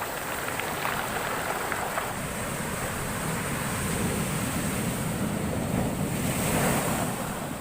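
Heavy storm surf breaking and rushing up the shore, with wind buffeting the microphone. The wash swells to its loudest about five to seven seconds in.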